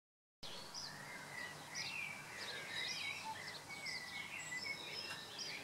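Faint bird chirping: many short, high twittering notes and quick glides over a steady low background noise, starting about half a second in.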